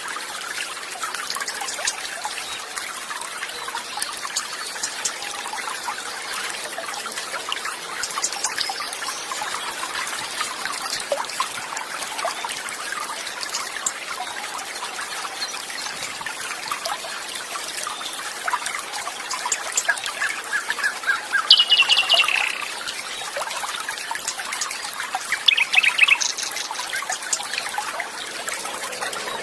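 Water trickling and running steadily, with birds chirping over it; two short, quickly repeated bird trills about two-thirds of the way through and near the end stand out as the loudest sounds.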